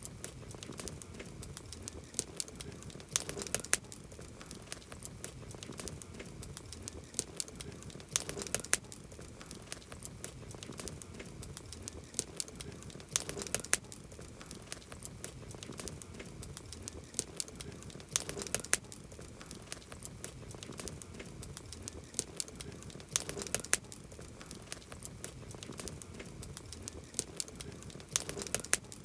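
Campfire burning with continuous crackling and popping of wood, over a low steady rumble of flame. Clusters of louder pops come about every five seconds.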